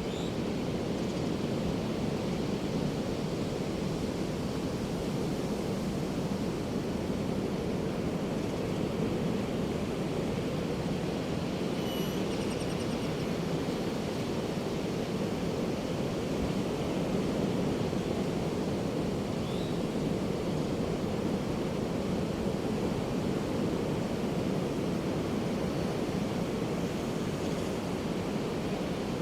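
Pacific Ocean surf breaking on a sandy beach: a steady, continuous wash with no separate wave crashes standing out. A faint short high call comes about halfway through.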